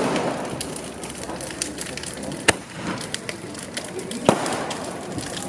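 Fireworks going off: three sharp bangs, at the start, about two and a half seconds in and just past four seconds, with lighter crackling pops between them. Crowd voices murmur underneath.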